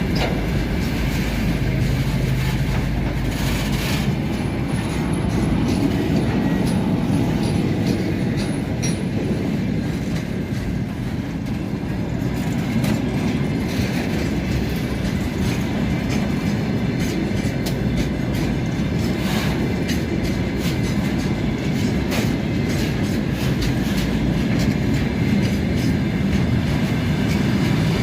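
2TE116 two-section diesel locomotive hauling a work train away, its diesel engines running under load over a steady low rumble, with the wagons' wheels clicking over rail joints.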